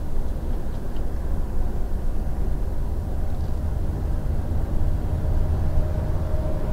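Inside a semi-truck's cab: the diesel engine and tyres make a steady low drone at highway speed while the truck overtakes another truck.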